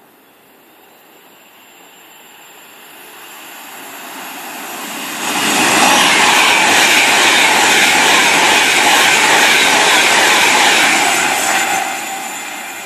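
A train approaching and passing through at speed without stopping: wheel and rail noise builds for several seconds, stays loud for about six seconds as it goes by, then fades near the end.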